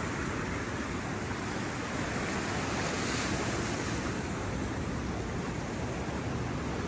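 Ocean surf breaking and washing on a sandy beach, a steady rush that swells slightly about three seconds in, with some wind on the microphone.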